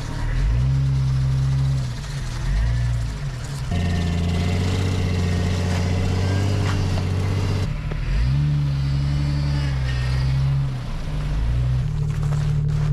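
Engine of a vehicle running on homebuilt snow tracks, driven through deep snow: the revs rise and fall twice, with a stretch of steady, higher running between, and the sound changes abruptly several times.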